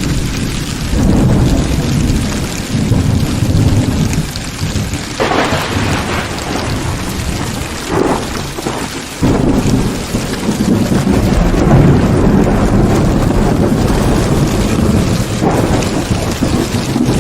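Heavy rain falling steadily, with thunder rumbling low underneath and two sharper claps about five and eight seconds in.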